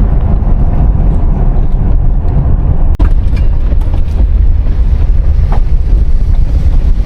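A moving car's road and wind noise, a steady low rumble, with a momentary drop about three seconds in.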